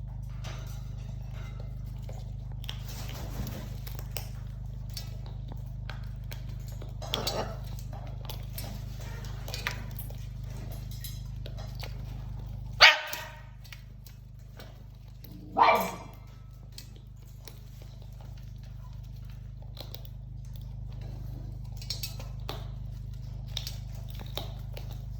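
A dog barking: two loud single barks about three seconds apart near the middle, with a few fainter barks or yips earlier. A steady low hum runs underneath.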